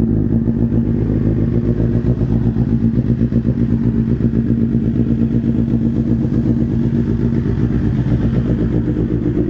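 BMW motorcycle with an Arrow full header and aftermarket slip-on exhaust, idling steadily with a fast, even exhaust pulse.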